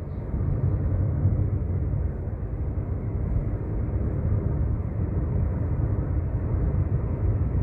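Steady low rumble of a car driving on a highway: engine and tyre noise with no breaks or changes.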